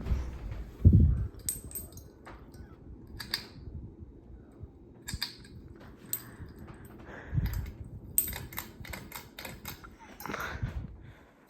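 Hunter Augusta ceiling fan running, its air buffeting the microphone in low thumps, with a scattered run of sharp clicks and rattles.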